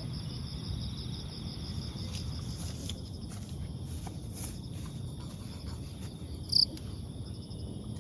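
Outdoor insect chorus, a steady, high chirring with a fast pulse, over a low background hum of open air. A short, louder chirp stands out about six and a half seconds in.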